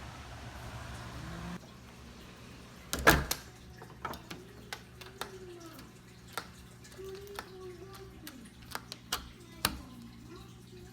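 A steady rushing noise, likely wind, that cuts off abruptly about a second and a half in. About three seconds in comes a single loud bang, followed by scattered light knocks and clicks.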